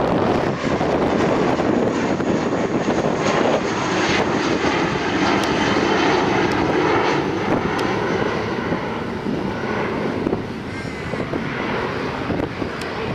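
Jet airliner engines at takeoff power, a loud steady rushing noise that eases slightly near the end as the aircraft climbs away.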